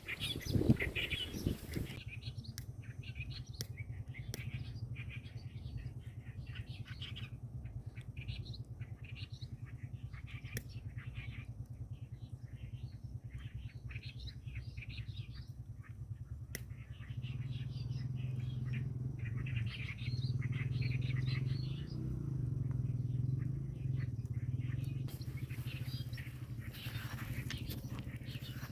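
Small birds chirping in quick repeated calls, over a steady low rumble that grows louder a little past halfway.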